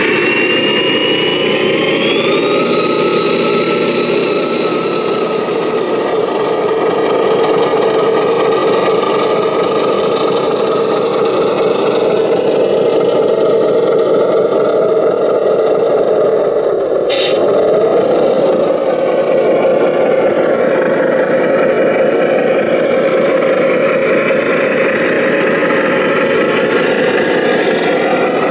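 Remote-controlled model truck running, its motor and gears making a steady engine-like drone. A whine climbs in pitch over the first couple of seconds and then holds. One short sharp click comes about two thirds of the way through.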